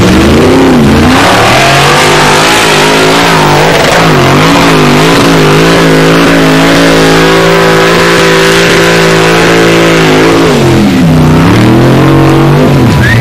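Loud Formula Offroad car's engine revving hard under full load as it climbs a steep hill. The pitch dips and rises a few times, holds high and steady for several seconds, then dips and climbs again near the end.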